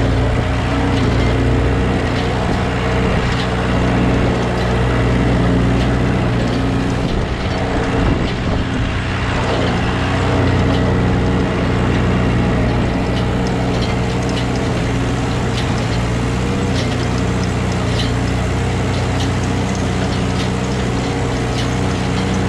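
Ford 8N tractor's four-cylinder engine running steadily under load, with a Massey Ferguson No. 3 hay baler working behind it, its mechanism clattering with frequent clicks.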